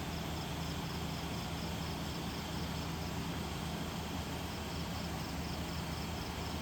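Steady hiss of heavy rain, with an insect chirping in short, even pulses of about three a second that fade out about five seconds in, over a low steady hum.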